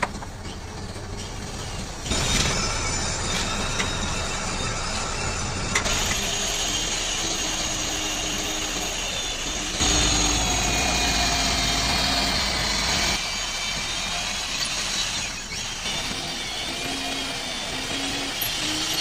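A vehicle engine running, heard across several edited clips, with the sound changing abruptly at each cut.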